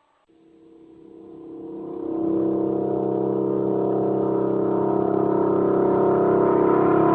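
A steady drone of several held pitches that fades in over about two seconds and then holds level.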